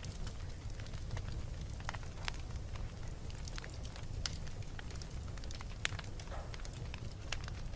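Wood fire burning in a fireplace: a steady low rumble of the flames under irregular sharp crackles and pops.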